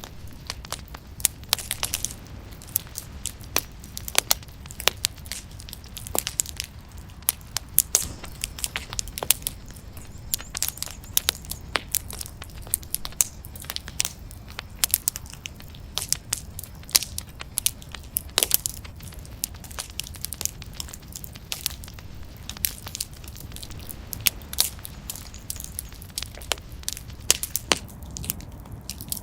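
Wood fire burning in a fireplace, crackling and popping with many sharp irregular snaps over a low steady rumble of the flames.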